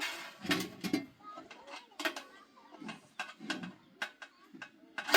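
Irregular clicks and knocks, some close together and some a second apart, with low murmured voices in between.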